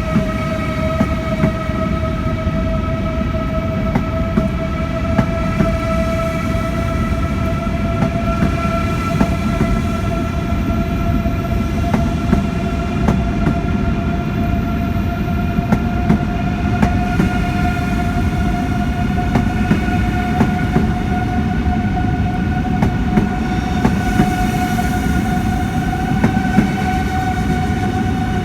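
Electric train moving and slowly gaining speed: a steady motor whine climbing gradually in pitch over a dense low rumble, with wheels clicking irregularly over rail joints and points.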